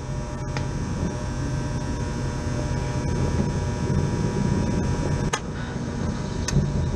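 Air-conditioning condensing unit running, a steady fan whir over a low hum, with two sharp clicks near the end.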